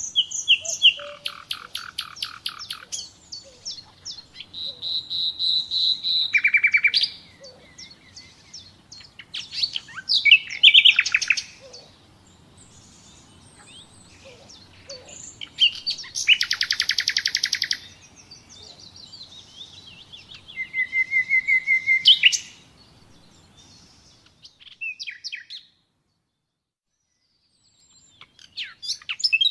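Common nightingale singing: loud phrases of rapid repeated notes and trills, with held whistled notes between, each phrase separated by a short pause. The song drops away for a couple of seconds near the end, then a new phrase starts.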